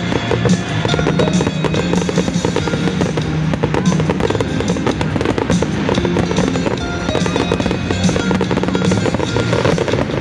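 Fireworks bursting and crackling in rapid, continuous succession over loud music.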